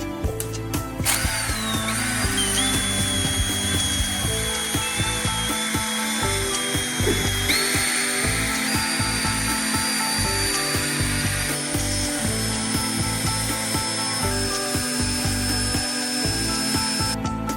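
A small electric power tool running with a steady high whine that steps up in pitch twice and stops near the end, over background music.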